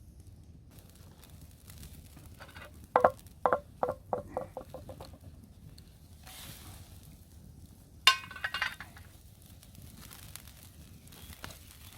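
Metal camping cookware clinking: a run of ringing strikes about three seconds in that come quicker and quieter, then one sharp ringing clink about eight seconds in.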